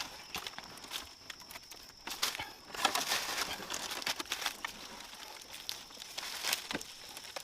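Irregular rustling and crackling of dry plant material being handled, with scattered sharp clicks and a faint steady high-pitched tone underneath.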